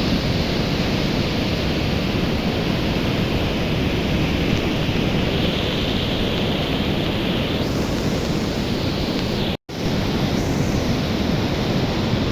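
Swollen Beas river in flood: a steady, loud rush of fast, heavy water. The sound drops out for an instant about ten seconds in.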